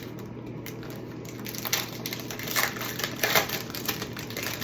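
Car magnets and their plastic packaging being handled, with scattered crinkling and light clicks over a steady low hum.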